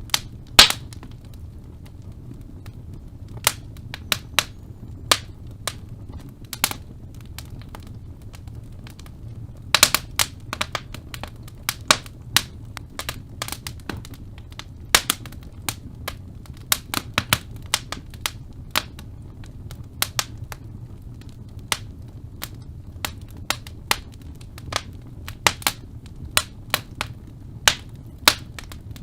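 Fire burning in a fireplace, crackling with sharp, irregular pops, some in quick clusters, over a low steady rumble.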